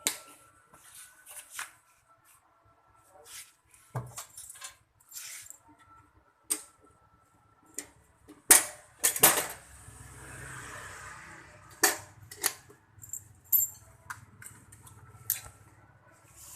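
Scattered metallic clicks, knocks and clatter, with the loudest knocks about eight and a half to nine and a half seconds in, followed by a faint low hum.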